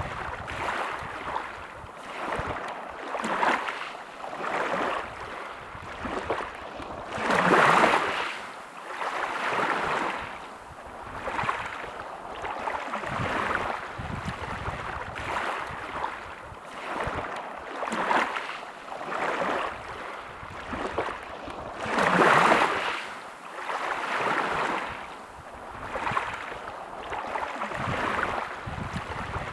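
Small sea waves washing onto the shore, a new wash swelling and fading every second or two. Two bigger waves break about a quarter of the way in and about three quarters of the way in.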